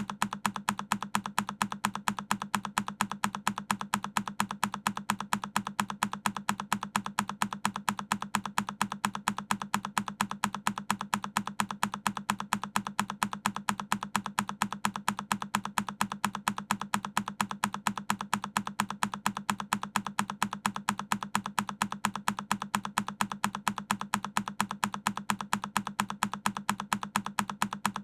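A single key on a Keychron K10 mechanical keyboard pressed over and over, each press a sharp click, repeating in a quick, even rhythm.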